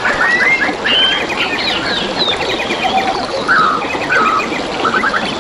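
Several forest birds calling over one another, with whistled notes and quick rattling trills, over the steady trickle of flowing water.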